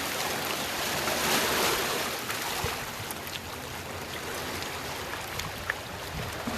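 Steady rushing noise of surf and wind at the shore, swelling about a second in and easing after, with a few faint clicks.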